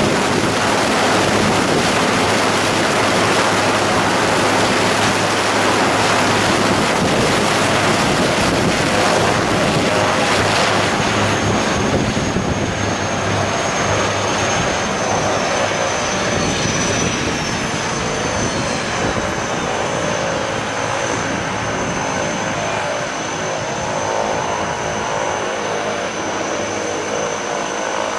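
A steady engine drone under a dense rushing noise. A thin, steady high whine joins about eleven seconds in, and the sound eases slightly after that.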